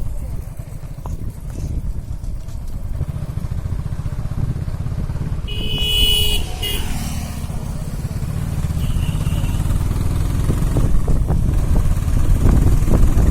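Steady low rumble of a moving motor vehicle, with a horn honking briefly about six seconds in.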